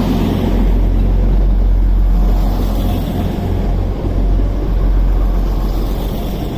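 Transport for Wales Class 175 diesel multiple unit running at the platform, a loud steady low rumble.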